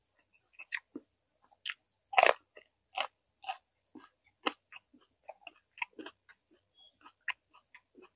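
Close-up crunchy biting and chewing of vegetables: an irregular string of short, crisp crunches, the loudest a little over two seconds in.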